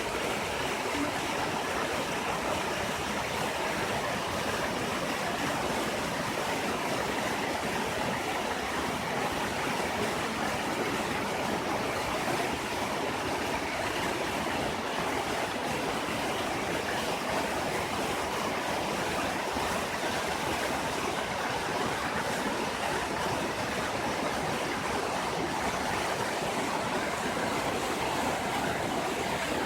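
Large waterfall: a steady rush of falling water.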